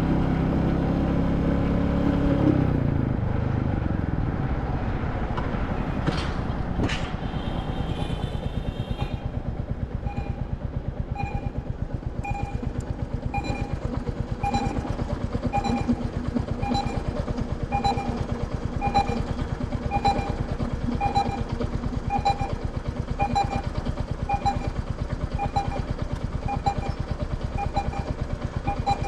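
Royal Enfield Classic 350's single-cylinder engine slowing down, then idling with an even thump. From about ten seconds in, a short high beep repeats about once a second.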